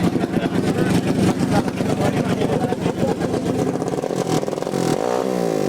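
Small minibike engines running, with one revving up, its pitch rising, about five seconds in.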